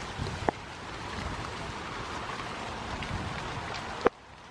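Steady hiss of rain falling, with one sharp click about half a second in. The sound cuts off suddenly and goes quieter near the end.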